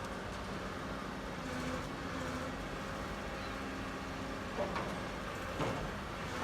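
A heavy vehicle's engine running steadily, with two short knocks about a second apart near the end.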